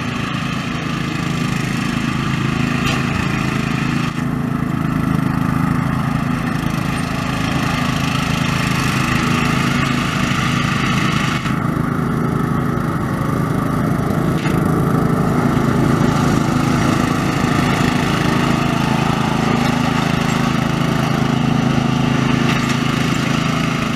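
Riding lawn mower engines running steadily under way, a continuous engine drone that holds at one level.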